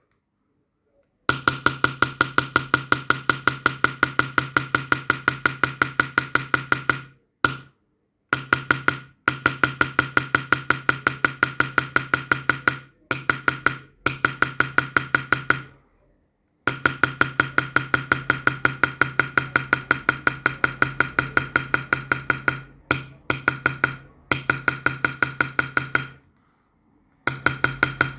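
Small hammer tapping a steel chasing or engraving tool into silver, about five quick, even strikes a second with a steady ringing tone. The tapping comes in runs of a few seconds, broken by short pauses.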